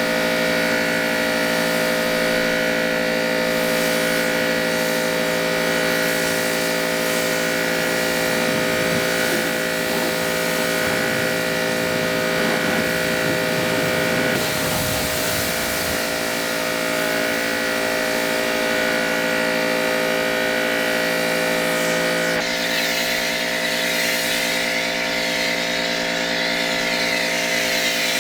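Car-washing machinery running with a steady motor whine, stepping to a different pitch about 22 seconds in.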